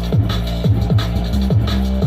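Electronic dance music with a steady beat, a pitch-dropping kick drum about twice a second, playing through a homemade cardboard Bluetooth speaker.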